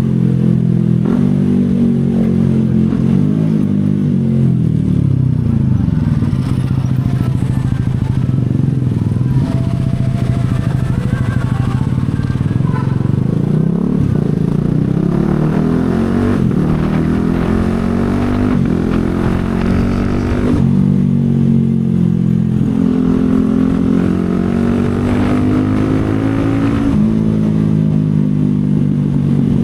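CFMoto 250SR's single-cylinder engine running under way. The revs climb and drop back several times as the bike accelerates and changes gear.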